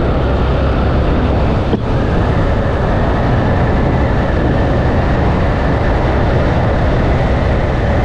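Steady rush of wind on a helmet-mounted microphone over the running single-cylinder engine of a Yamaha FZ V2 motorcycle on the move.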